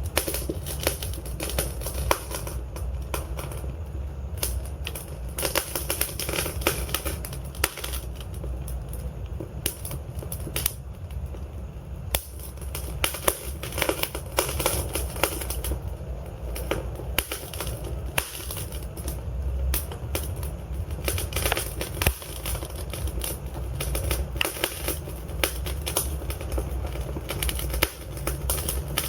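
Wood fire of burning logs crackling and popping steadily, with frequent sharp snaps over a low rumble of the flames.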